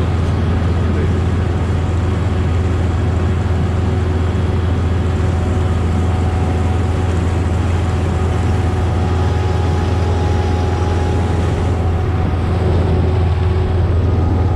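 Heavy farm machinery's diesel engine running steadily, a loud constant low drone with a few steady whining tones above it. It gets slightly louder about twelve seconds in.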